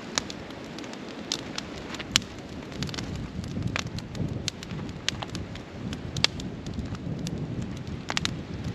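Wood campfire crackling, with irregular sharp pops over a steady low rushing sound.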